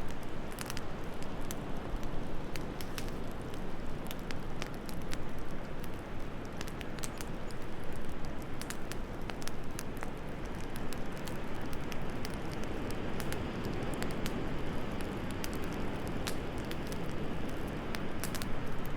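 Wood fire crackling, with scattered sharp pops and snaps over a steady low rush of wind.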